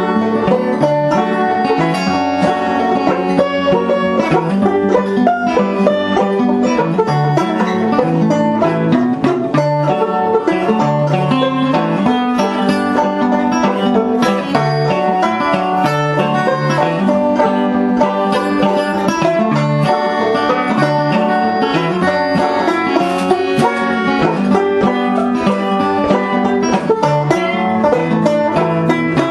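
Fingerpicked acoustic string instruments, at least one guitar, playing an instrumental passage of an old blues tune with a steady rhythm of picked notes.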